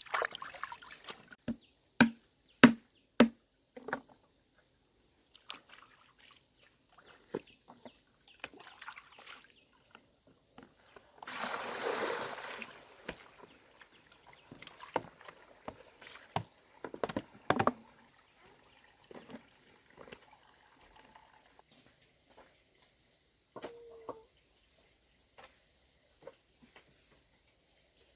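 Insects chirring steadily in the background, with a few sharp knocks and clatters about two to four seconds in and scattered later, and a brief splashing, sloshing noise around the middle.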